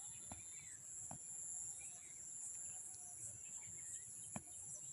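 A steady high-pitched chorus of insects in the background, with short scattered bird chirps and a few sharp clicks.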